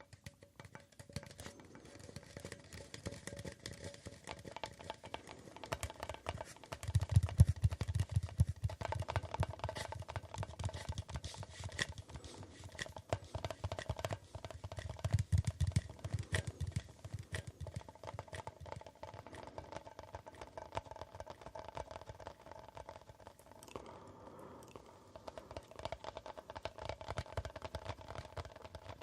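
Rapid, dense tapping on a hard object, clicks following each other continuously, with heavier, fuller-sounding stretches about a quarter and about halfway through.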